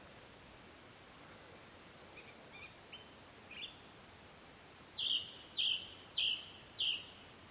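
A bird calling: a few faint high chirps, then about five seconds in four loud, sharp, high notes in quick succession, roughly half a second apart, each dropping in pitch at its start.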